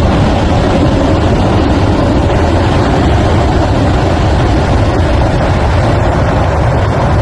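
Debris flow of muddy water, rocks and boulders rushing down a torrent channel: a loud, steady rush with a deep rumble.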